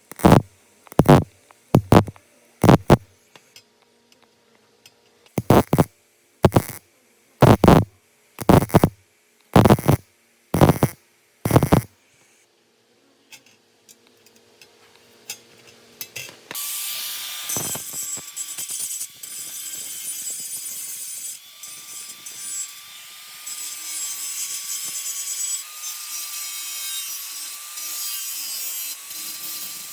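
A run of sharp knocks about once a second, then after a short pause a power tool cutting steadily, with a thin whine that wavers slightly in pitch as the load changes.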